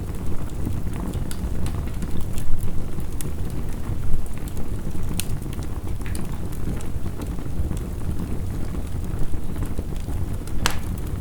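Wood fire crackling, with scattered sharp pops and one loud pop near the end, over a steady low rush of heavy rain.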